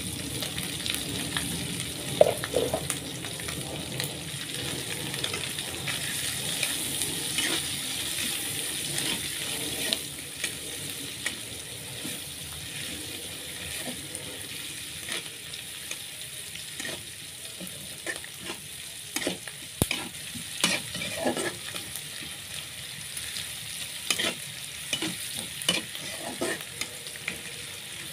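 Dried anchovies (teri) and chillies frying in hot oil, with a steady sizzle. A spatula stirs and knocks against the pan in short sharp strokes, more often in the second half.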